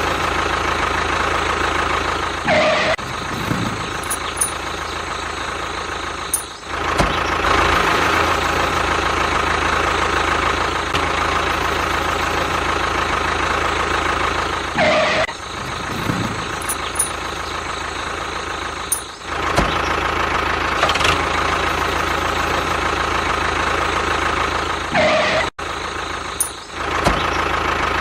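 A tractor engine running steadily at idle, with short breaks and dips every few seconds.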